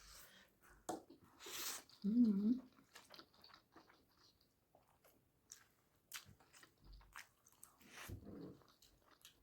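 Close-up mouth sounds of eating: chewing, biting and wet smacking of food in scattered short clicks. There is a brief wavering hum about two seconds in, the loudest moment.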